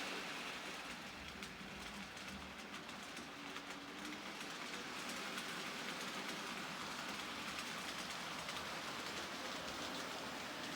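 Model railway train running along the layout's track: a steady rushing noise of small wheels on rail, with faint ticking over the rail joints.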